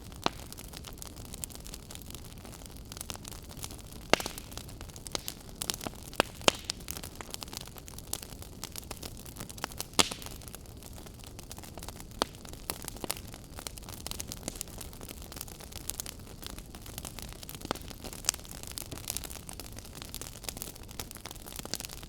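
Wood fire in a fireplace crackling over a steady low hiss, with irregular sharp pops; the loudest come at about 4, 6.5 and 10 seconds in.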